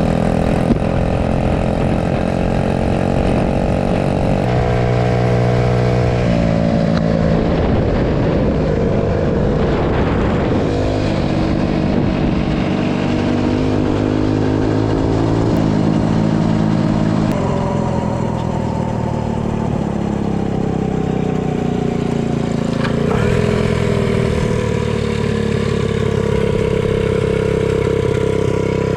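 Small pull-start, lawnmower-style mini bike engine running under throttle while riding, its pitch rising and falling several times as the speed changes.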